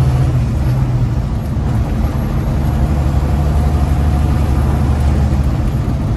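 Big rig truck's diesel engine running under way, heard from inside the cab; its low note drops to a lower pitch about a second in and then holds steady.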